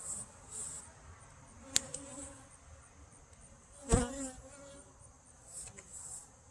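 Honey bees buzzing around an open hive, with a steady high insect trill underneath. A sharp click comes about two seconds in and a louder knock about four seconds in.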